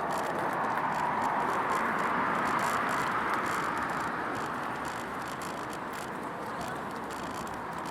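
Bicycle riding along a path, heard from a recorder fixed to the bike: a rush of tyre and road noise that swells and then fades, with light clicks and rattles.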